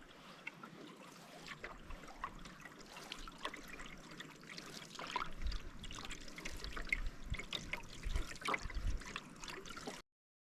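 Canoe paddle strokes in lake water: splashing, trickling and dripping as the blade goes in and comes out, with many small splashes. Cuts off suddenly near the end.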